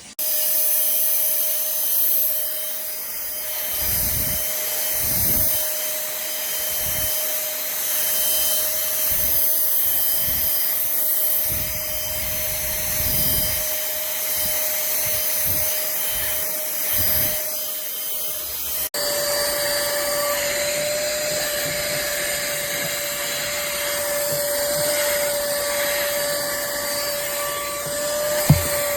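Pemacom cordless handheld vacuum running steadily: a high motor whine over airflow hiss, with irregular dull low bumps as it is worked over a surface. About two thirds of the way through, the whine jumps to a slightly lower pitch.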